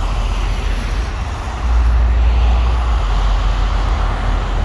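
Deep, steady car engine and road rumble that swells louder for a couple of seconds about two seconds in.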